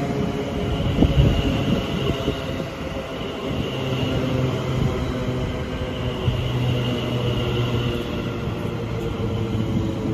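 Electric train moving through a station platform: a steady rumble and hum, with a few sharp knocks about a second in.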